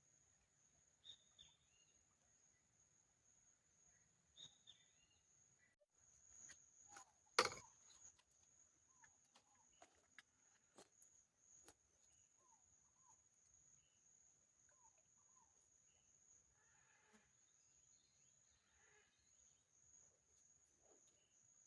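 Faint streamside forest ambience: a steady high-pitched insect trill with scattered faint bird chirps. A single sharp click or knock comes about seven seconds in.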